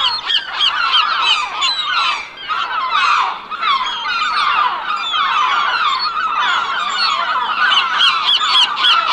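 A large flock of birds calling all at once: many short calls overlap into a dense, unbroken chorus.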